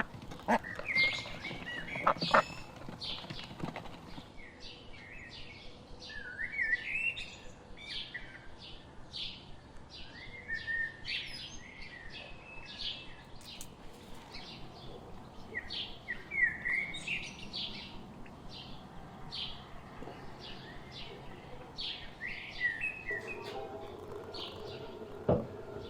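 Small songbirds chirping and twittering in many short, quick calls, with a few duck quacks in the first couple of seconds.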